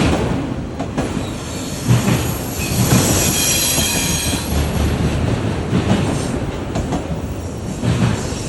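A train rolling by, its wheels knocking over rail joints roughly once a second, with a high-pitched wheel squeal from about two and a half seconds in that lasts about two seconds.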